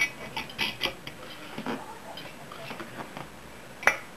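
Small metal engine parts and hand tools clicking and clinking as they are handled during engine assembly, a string of light taps with one sharper click near the end.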